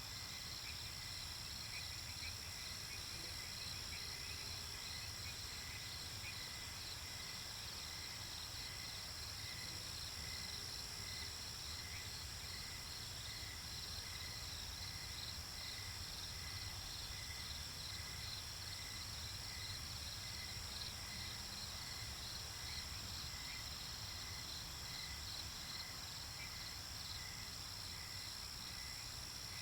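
Night insect chorus: crickets trilling steadily in several high overlapping tones, with evenly repeating chirps about once a second, over a low rumble.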